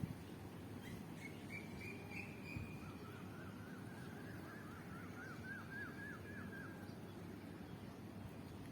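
Bird calling: a short trill about a second in, then a fast series of repeated down-slurred notes from about three to seven seconds, over steady low background noise.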